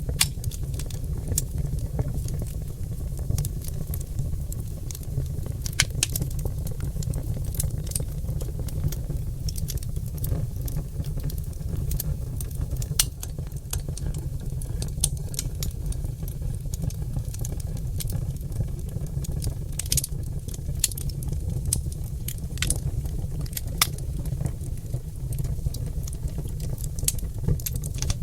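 Oak logs burning in a fireplace, crackling and popping in irregular sharp snaps over a steady low rumble of the fire.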